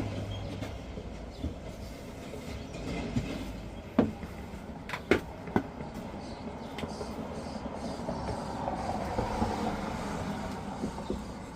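A steady low mechanical rumble, like an engine running, with a few sharp knocks about four and five seconds in.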